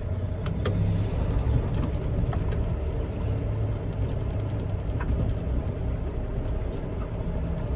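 Semi truck's diesel engine running, a steady low rumble, with a few light clicks over it.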